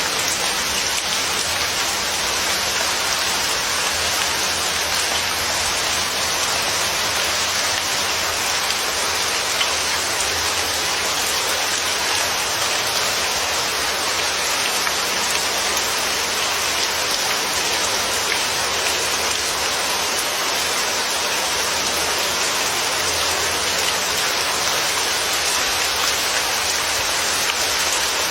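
Steady rain falling on a surface, a constant even hiss with no distinct drops or changes.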